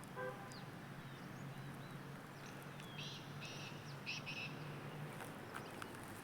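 A few short, faint bird chirps about three to four and a half seconds in, over a low steady hum in quiet outdoor ambience.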